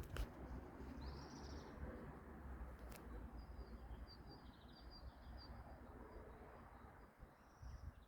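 Small birds chirping faintly: one call about a second in, then a run of quick high chirps, over a low background rumble.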